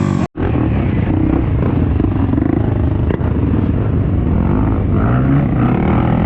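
Dirt bike engines running and revving, their pitch rising and falling. The sound cuts out for an instant near the start.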